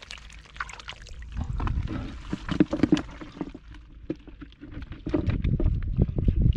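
Water splashing and sloshing in two bouts, with many small knocks and clicks: the first about a second and a half in, the second louder one near the end.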